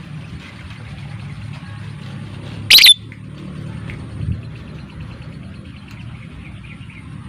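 Lovebird chirping faintly over a low steady hum, with one loud, sharp shriek just under three seconds in.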